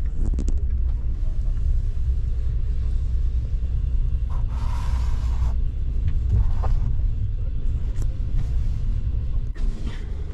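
Steady low rumble of a passenger train running, heard from inside a sleeper compartment as the train pulls into a station. A hiss lasting about a second comes roughly halfway through.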